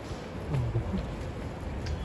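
Wind buffeting the microphone as an uneven low rumble over a steady outdoor hiss, with a few faint ticks.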